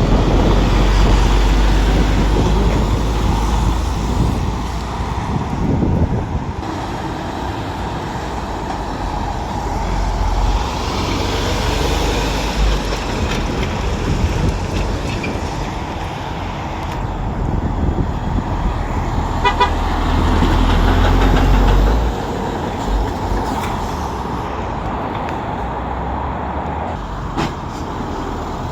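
Heavy lorry engines running with a deep rumble, and one short truck horn toot about twenty seconds in.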